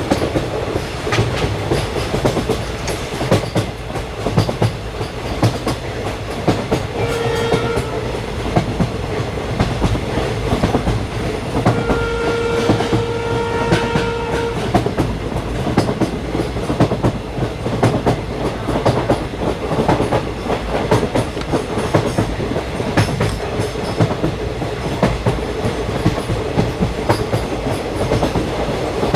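Venkatadri Express passenger train running, with a steady rumble and the clickety-clack of its wheels over the rail joints. A train horn sounds twice, briefly about a quarter of the way in and then longer for about two and a half seconds near the middle.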